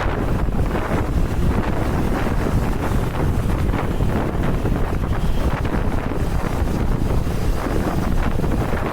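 Wind buffeting the microphone of a moving motorcycle: a steady, loud, low rush of noise.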